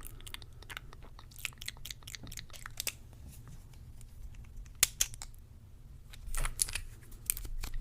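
Close-miked small handling sounds: scattered light clicks, taps and crinkles of items being picked up and set down, thinning out about halfway through and bunching up again near the end.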